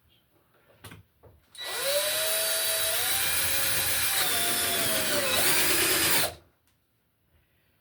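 Power drill driving a screw to fasten a new electrical box, running for about four and a half seconds with a steady motor whine whose pitch rises at the start and dips near the end before it stops. A few light clicks come before it starts.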